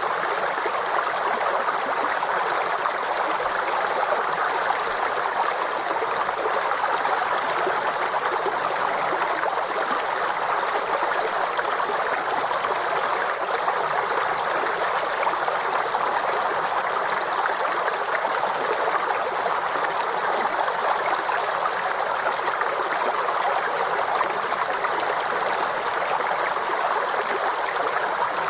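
Forest stream running steadily over rocks, a continuous rushing and gurgling of water.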